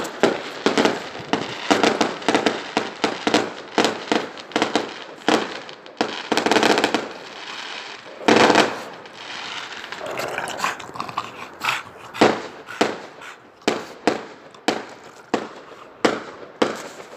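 Fireworks going off in quick succession: a steady string of sharp bangs and pops with stretches of crackling, and one louder blast about eight seconds in.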